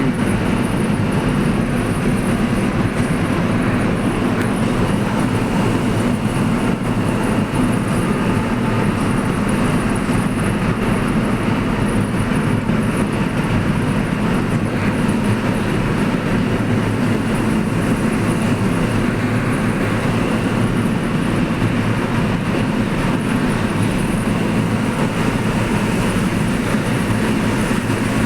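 Steady rumble of a vehicle driving through a road tunnel: tyre and engine noise, even and unbroken.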